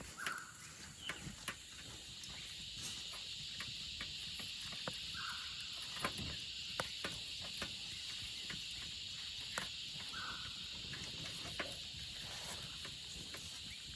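Steady high-pitched insect chorus, with scattered small clicks and snaps and a few brief chirps about every five seconds.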